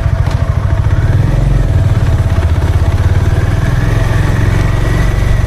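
Honda H'ness CB350's air-cooled single-cylinder engine idling freshly started, a steady, evenly pulsing exhaust note.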